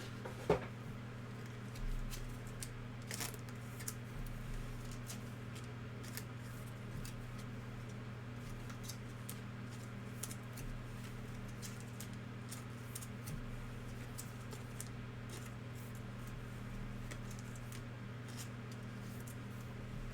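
Trading-card packs and cards being handled: scattered soft clicks, crinkles and taps, with a louder tap about half a second in. A steady low electrical hum runs underneath.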